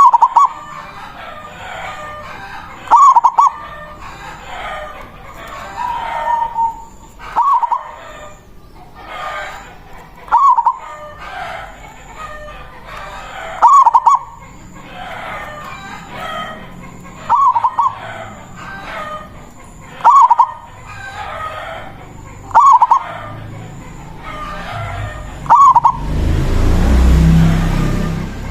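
Zebra dove (perkutut) cooing its staccato 'manggung' song, a short loud phrase repeated about every three seconds, with other birds calling steadily behind it. Near the end a loud rushing noise lasts about two seconds.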